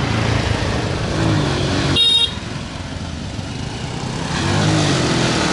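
Motorbike engine and road traffic, with the engine pitch rising and falling. A vehicle horn toots briefly about two seconds in. Near the end it gets louder, with wind noise on the microphone as speed picks up.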